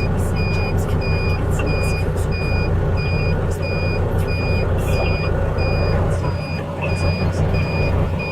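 Heavy truck's diesel engine idling, with a reversing alarm beeping rapidly and evenly, about two to three high electronic beeps a second.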